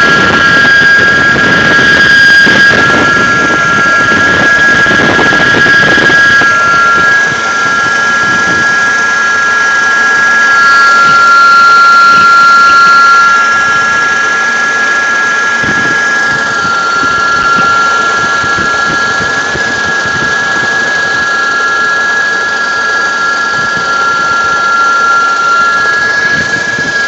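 Mercedes-Benz W202's engine running with a steady high-pitched whistle made of two close tones; the engine noise beneath it drops about seven seconds in and again about thirteen seconds in. The cause of the whistle is unknown to the owner.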